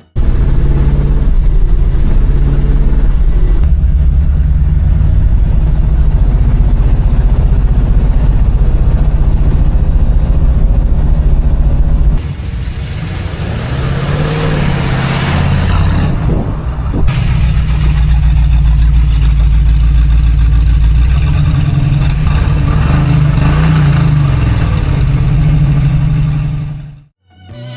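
A classic car's engine running loudly with a deep rumble, its pitch rising and falling as it is revved. The sound changes abruptly about twelve seconds in and cuts off sharply near the end.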